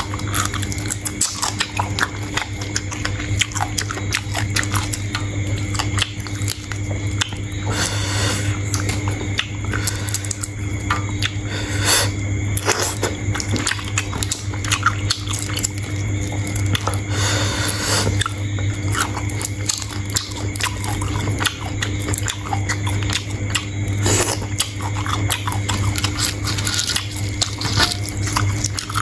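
Close-miked chewing and crunching of sea shrimp: a dense run of irregular crackles, clicks and wet squishes, with a steady low hum underneath.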